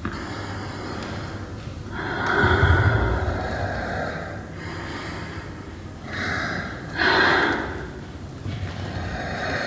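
Heavy, audible breathing: loud breathy exhalations, the strongest about two seconds in and two more around six and seven seconds, over a low steady hum.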